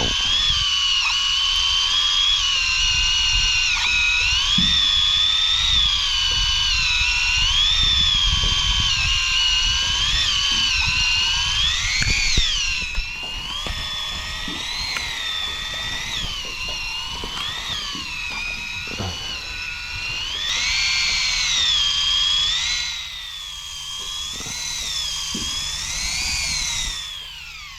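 Electric fishing reel's motor whining as it winds in a hooked fish that may be a big one. The pitch rises and falls about once a second as the fish pulls against the line, then drops away and stops just before the end.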